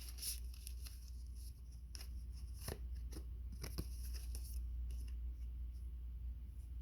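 Tarot cards being handled: scattered soft clicks and rustles over a low steady hum.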